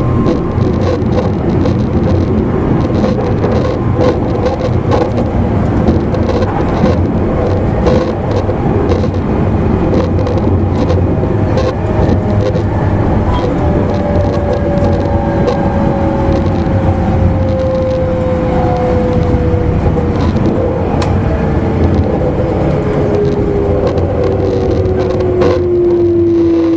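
Interior running noise of an E259 series electric train's motor car: wheels on rail with scattered clicks over a steady rumble. From about halfway through, the traction motor whine falls slowly and steadily in pitch as the train slows under braking.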